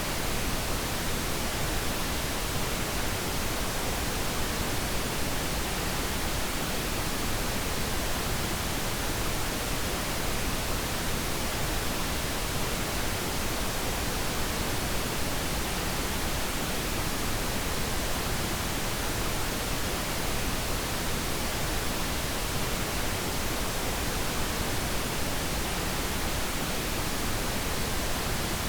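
Steady sleep-aid noise: an even, unchanging hiss spread across all pitches, with no events or changes.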